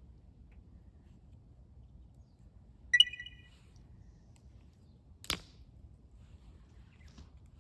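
A metal object clinks sharply about three seconds in and rings briefly at a few high tones. A second, sharper click without a ring follows about two seconds later.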